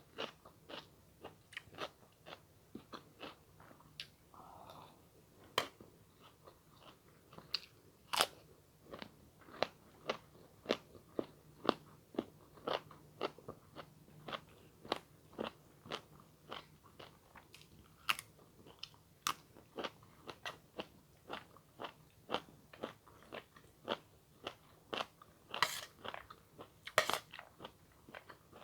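Close-miked eating: steady chewing and crunching, about two crisp clicks a second, with a few longer, louder crunchy bites near the end.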